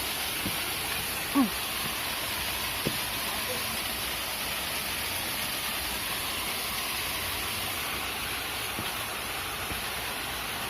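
Steady rush of a small mountain spring stream flowing down over rocks. About a second and a half in, a short pitched sound rises briefly above it.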